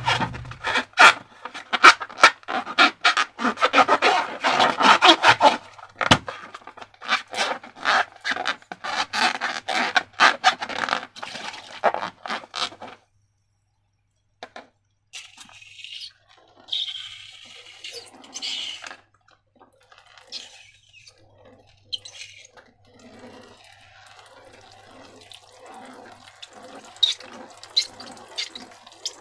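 Wet, sticky slime sounds: a dense run of rapid crackling and squelching clicks for about the first thirteen seconds, then a brief silence and softer, scattered wet squishing.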